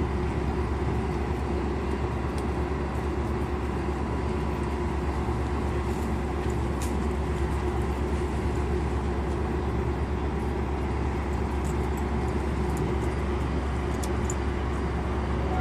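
Metra commuter train's diesel locomotive running steadily at the platform: an even low rumble with a constant engine hum and a few faint ticks, the level unchanging.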